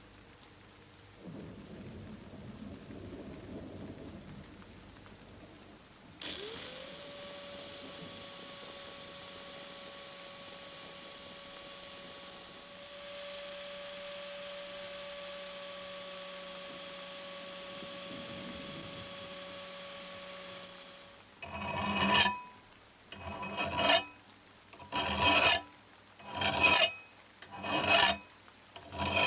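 A small motor-driven tool starts about six seconds in and runs steadily with a constant hum until it stops near the last third. It is followed by loud, evenly spaced abrasive strokes, about one every second and a half, typical of hand filing or sanding.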